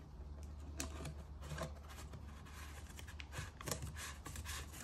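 Faint scattered clicks and handling of plastic as a pour spout is fitted onto an engine-oil bottle, over a steady low hum.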